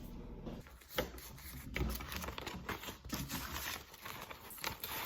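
Paper money being handled and counted: bills rustling and flicking in a run of small irregular crinkles and clicks.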